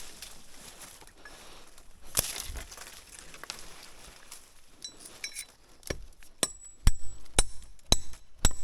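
A few scattered knocks, then near the end a quick run of sharp strikes about two a second, some with a brief high metallic ring, like tools or hard objects being struck or knocked together.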